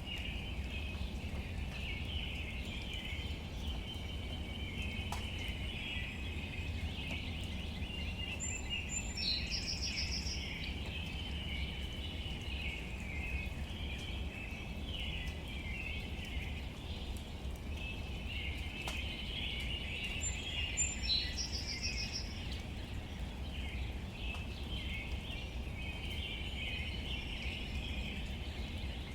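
Outdoor nature ambience: a steady high chirping chorus, with a short bird call twice, about twelve seconds apart, over a low rumble.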